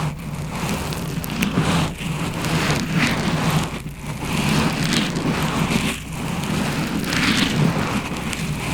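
Close-miked ASMR scratching and rustling: a dense crackle that swells and fades every second or two, over a steady low hum.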